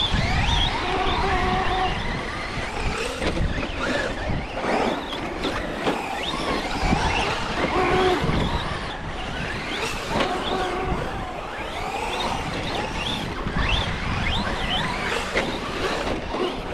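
Electric RC trucks driving and being throttled, their motors whining up and down in pitch over and over, with wind buffeting the microphone.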